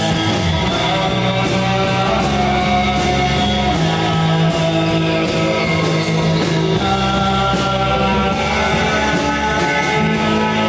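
A rock band playing live: held, ringing guitar chords over drums, with cymbal hits at a steady pace.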